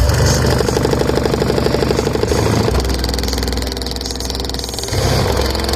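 Two Skar VXF 15-inch car subwoofers playing loud, deep bass notes that change pitch about every two to three seconds.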